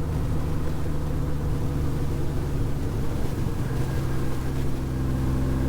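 2006 Honda Gold Wing GL1800's flat-six engine running steadily under way, with rushing air noise over it. Its note changes and settles about two-thirds of the way in.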